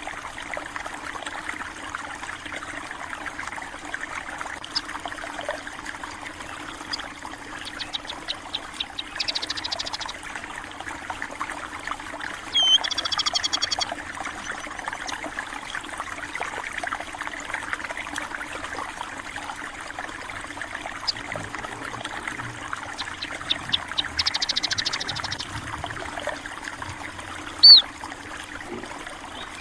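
Steady trickling and running of a small stream, with small birds chirping over it: rapid trills twice and a few short calls, one with a downward slur.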